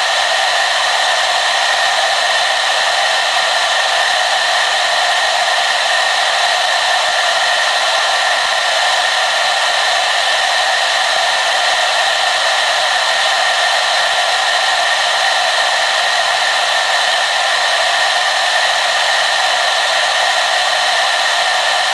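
Hair dryer running steadily, a constant rushing blow of air with a steady whine in it and very little low end.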